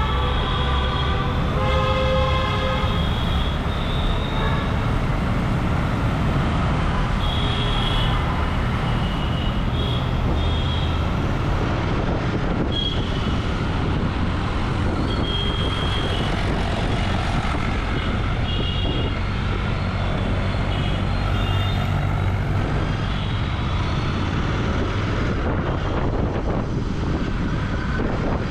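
Royal Enfield Continental GT 650's parallel-twin engine running under way through its exhaust, amid road traffic. Vehicle horns honk over it: several loud horns in the first three seconds, then shorter, higher toots now and then.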